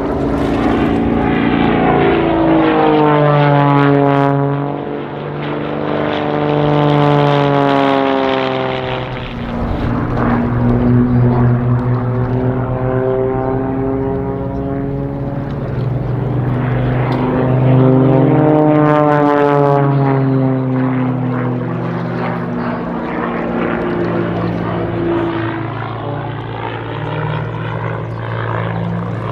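Several propeller-driven aerobatic planes flying in formation, their piston engines droning. The pitch drops sharply as they sweep past, once a couple of seconds in and again a little past halfway, with the drone continuing between passes.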